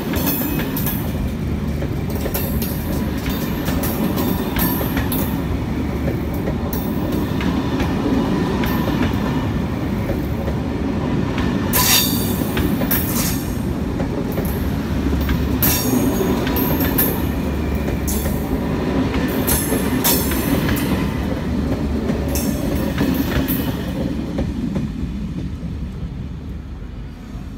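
SNCF Corail passenger coaches rolling past on the rails: a steady rumble broken by sharp clicks of the wheels over the rail joints and brief high wheel squeals. The sound fades over the last few seconds as the end of the train moves off.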